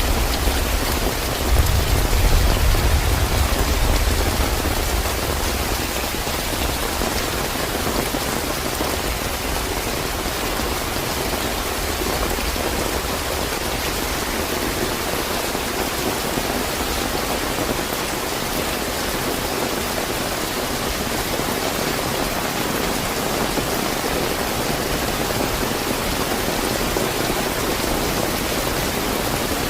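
Steady, fairly heavy rain falling, a continuous even hiss of drops on surfaces. A deep low rumble underlies the first few seconds and fades away.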